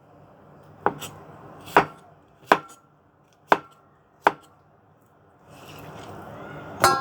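Knife cutting a cucumber on a cutting board: about six separate, unevenly spaced cuts, then a scraping rustle and a short ringing clatter near the end.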